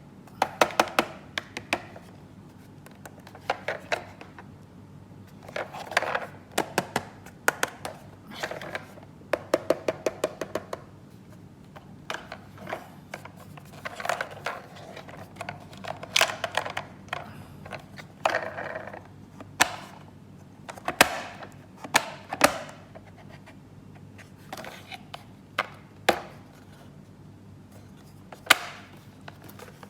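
Hard plastic toy pieces being handled. They click, tap and rattle in quick runs of clicks with short pauses and a few single sharper knocks, with light rustling in between.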